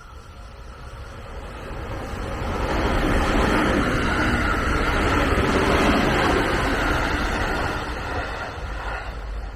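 A train passing by. Its running noise swells over the first few seconds, stays loud for several seconds, then dies down near the end.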